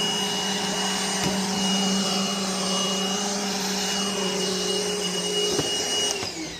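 A vacuum-like electric motor running with a steady whine and hiss, switched off about six seconds in and winding down with falling pitch.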